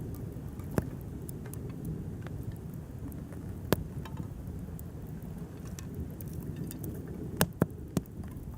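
Wood campfire burning with a steady low rush and sharp crackling pops: one about a second in, a loud one near four seconds, and three in quick succession near the end.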